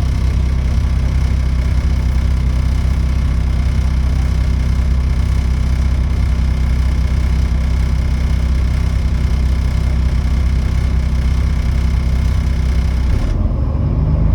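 Volvo B7TL bus's six-cylinder diesel engine idling steadily, heard from on board, with a deep hum. The uploader describes its exhaust as blown and the bus as rattly. The engine note shifts about thirteen seconds in.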